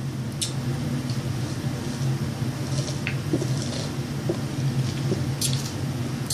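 Close-miked eating sounds, soft squishy chewing with a few faint mouth clicks, over a steady low hum.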